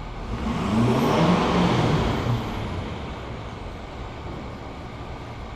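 Ford 6.7 Power Stroke V8 turbodiesel snapped from idle to full throttle about half a second in, revving up for a second or so with a faint high whine rising alongside, then dropping back to idle by about three seconds in. This is a free-acceleration snap for an exhaust smoke opacity test.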